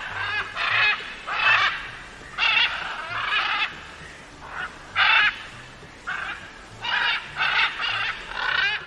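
Waterfowl, geese or ducks, calling over and over: about a dozen short, pitched honking calls in an uneven series, some bending in pitch.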